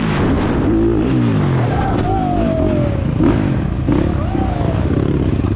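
Dirt bike engines running hard, their pitch repeatedly rising and falling with the throttle.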